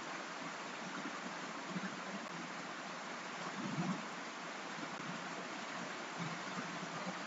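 Steady rain hiss, with a few soft low thumps around the middle.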